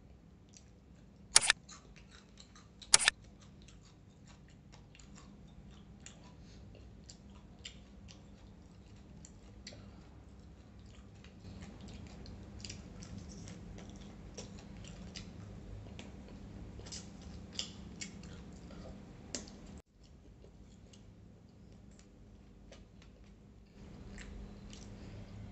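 Close-up mukbang eating sounds: chewing and lip smacking on fried chicken and rice eaten by hand, with many small wet clicks and crackles. Two sharp, much louder clicks come about a second and a half apart near the start.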